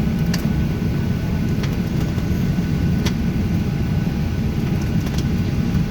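Steady low rumble of a Boeing 737-700 as heard inside the passenger cabin, with a faint steady whine over it and a few small clicks.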